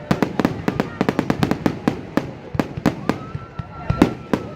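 Fireworks crackling in a rapid, irregular string of sharp bangs, several a second. A steady high whistle joins in for about the last second and a half.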